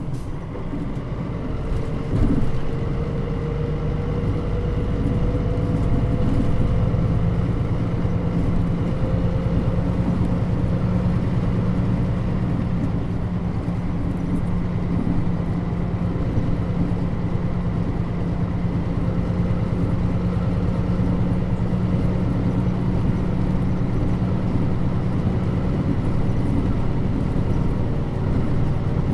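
Cabin sound of a Mitsubishi Fuso Aerostar route bus (Nishitetsu body, KL-MP35JM) under way: the diesel engine runs steadily over road noise, with a thin whine rising slowly in pitch over the first ten seconds.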